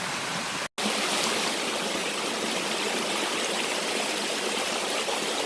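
Mountain valley stream flowing steadily over rocks, a continuous rushing and gurgling of water. It cuts out for an instant just under a second in, then carries on slightly louder.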